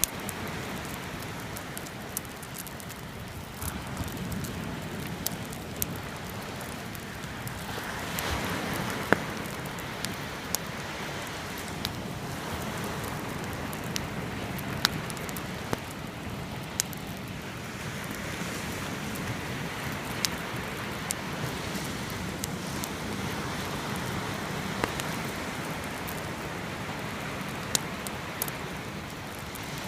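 Wood campfire crackling, with sharp pops scattered through, over the steady wash of sea waves that swells and ebbs every several seconds.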